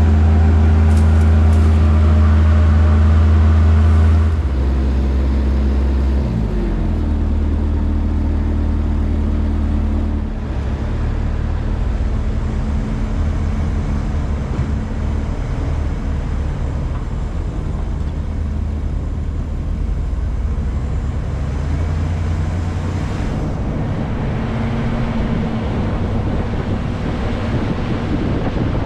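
Pickup truck engine running steadily with a low hum. The engine note drops about four seconds in, slides in pitch around six seconds, and settles lower about ten seconds in as revs change.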